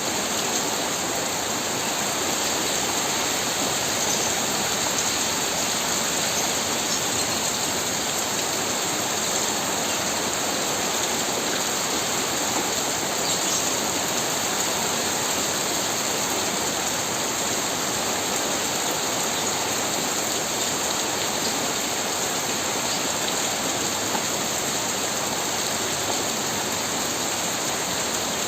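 Strong windstorm: a steady, unbroken rushing hiss of wind and pouring rain, with no gusts standing out.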